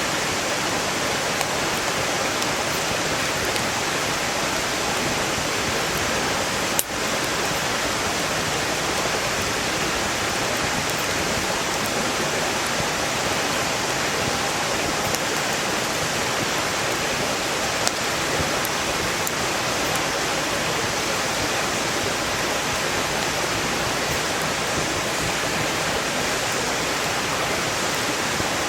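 Mountain stream rushing loudly and steadily, with faint, scattered crackles of a wood campfire and one sharper pop about seven seconds in.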